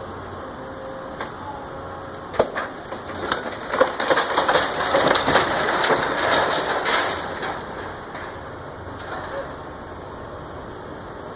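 Wooden framing of a house splintering and breaking as it is torn down: a sharp crack about two seconds in, then several seconds of dense crunching and snapping that dies away.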